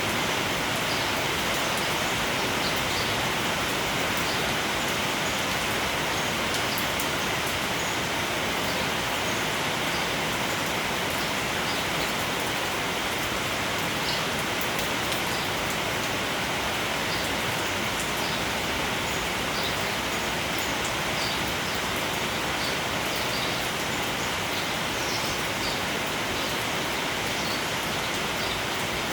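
Steady rain, a constant even hiss, with scattered faint high-pitched ticks through it.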